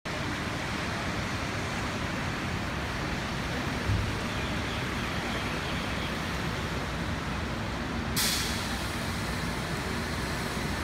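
Steady hiss of heavy rain over city traffic on wet streets, heard from high up. About four seconds in there is a brief low thump, and a little after eight seconds the hiss turns suddenly brighter and stays that way.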